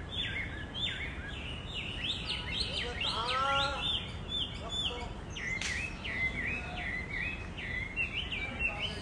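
Small birds chirping over and over, short quick falling notes repeated several times a second, over a steady low background rumble. One lower, fuller call rises and falls about three seconds in.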